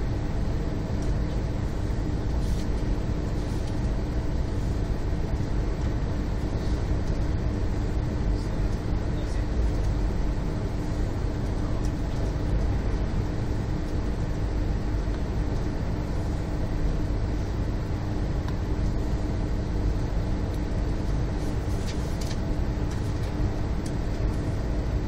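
Steady running noise of a moving train heard from inside a passenger carriage: a low rumble with a constant hum.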